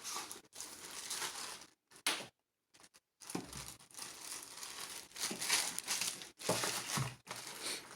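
Packaging crinkling and rustling in a series of short bursts with brief pauses as an item is unwrapped and handled.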